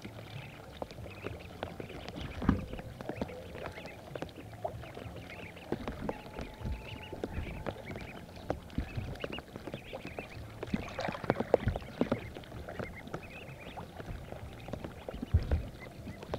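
Water splashing and sloshing in irregular small splashes and knocks, as ducklings swim and dabble.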